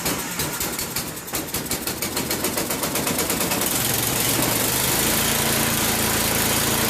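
Snowblower's small four-stroke engine started on its electric starter after the carburetor is primed: rapid uneven firing that catches and settles into a steady run about four to five seconds in.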